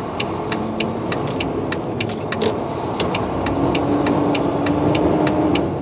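A semi truck's diesel engine runs inside the cab as the truck rolls along, its pitch rising slightly in the second half. A light, steady ticking sounds about three times a second.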